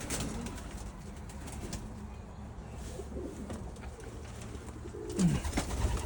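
Domestic pigeons cooing softly, with a louder, falling coo about five seconds in. A few light clicks and knocks near the end.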